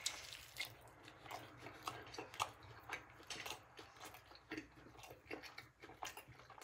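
Faint chewing of a crispy tortilla-and-cheese mulita, with a bite at the start, then close-mouthed chewing. Small, irregular crunchy clicks come from the fried tortilla.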